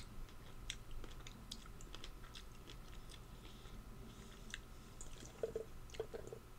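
A person chewing food with the mouth close to the microphone: small irregular clicks and smacks.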